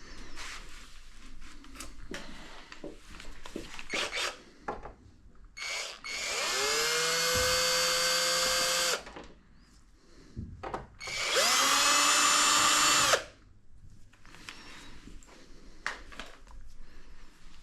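Cordless power drill-driver running in two bursts of a few seconds each; each whine rises as the motor spins up, then holds steady. Light clicks and clatter of handling come before, between and after the two runs.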